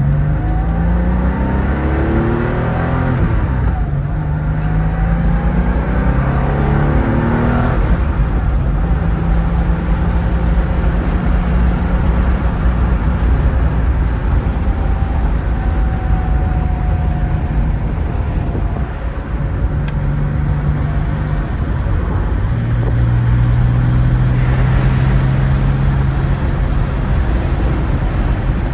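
1975 Porsche 911S air-cooled flat-six accelerating hard through two gears, with the engine note climbing and dropping at upshifts about four and eight seconds in. It then settles into a steady cruise.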